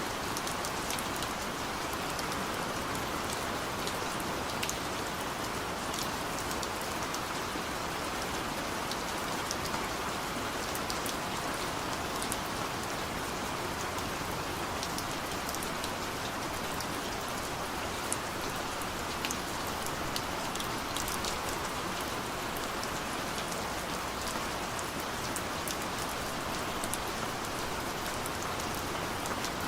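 Heavy downpour of rain falling steadily: a dense, even hiss with many small sharp drop ticks scattered through it.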